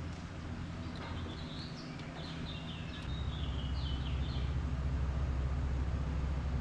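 Birds chirping several times over a steady low hum that grows louder about halfway through.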